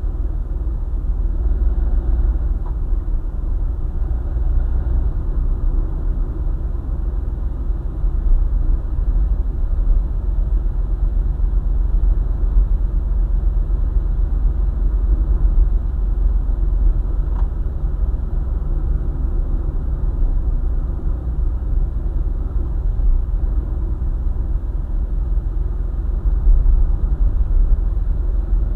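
Road noise of a car travelling along a highway: a steady low rumble.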